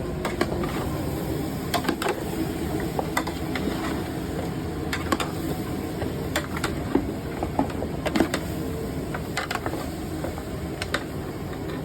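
A steady low mechanical hum with scattered sharp clicks and knocks throughout.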